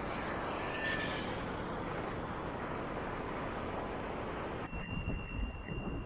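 City street traffic, a steady wash of passing vehicles and road noise, heard from a moving bicycle. About three-quarters of the way in, a few thin, steady high-pitched tones come in.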